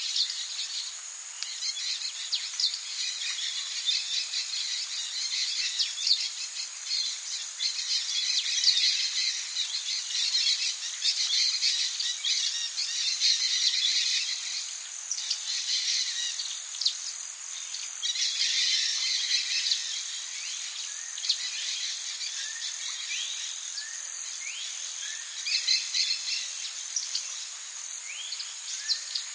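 Tropical rainforest ambience: a steady high insect drone with dense chirping, and bird calls over it, including a few short rising calls near the end.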